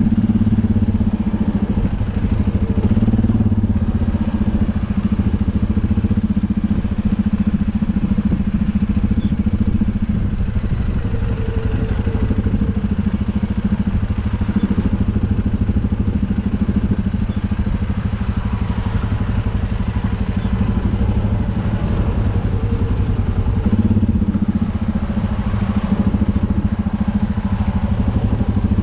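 UTB U650 tractor's diesel engine running steadily under way, with a constant low engine drone.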